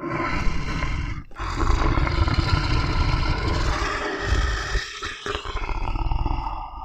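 Tiger roaring: a short roar, then a long, deep growling roar lasting about five seconds.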